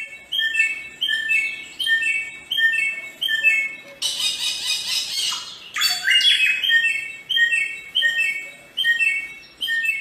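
Bare-throated whistler singing: a steady run of short, clear whistled notes, two to three a second, repeating in a stepped pattern. About four seconds in, a louder rasping phrase breaks in for a second or so before the whistles resume.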